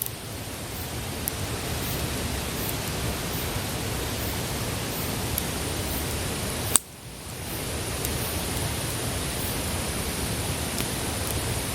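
Wood campfire burning with a steady hiss and faint crackling. About seven seconds in there is one sharp crack, after which the sound drops away and builds back up over a second or so.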